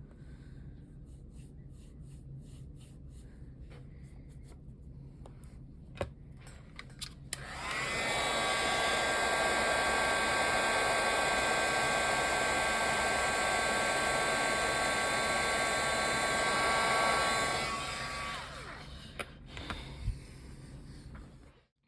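Hair dryer switched on about seven seconds in, running steadily with a whine for about ten seconds, then switched off and winding down. A few light taps before and after.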